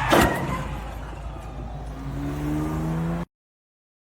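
Car engine running, with a sudden sharp noise right at the start. About two seconds in, the engine rises in pitch as it accelerates, then the sound cuts off abruptly.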